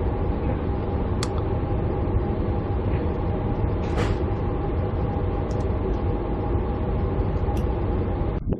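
Passenger train heard from inside the carriage: a steady low rumble with a constant hum and a few brief high squeaks or clicks, as the train draws into its terminating platform. It cuts off abruptly just before the end.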